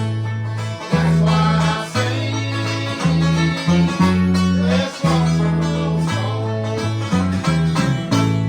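Live bluegrass band playing: banjo and guitar picking over a bass line that changes note about once a second. The tune ends near the end on a final chord left ringing.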